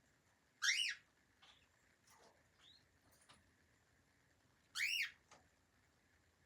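Cockatiel calling: two loud, short whistled calls that rise and fall in pitch, about four seconds apart, with a few faint soft chirps between them.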